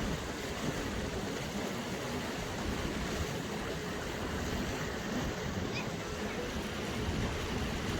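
Steady rushing noise of water and wind from a moving boat, heaviest in the low rumble.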